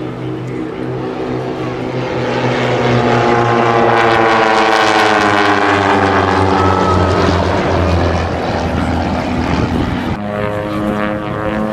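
Propeller airplane flying past, its engine drone swelling, then falling in pitch as it goes by. About ten seconds in the sound changes abruptly to a steadier engine drone.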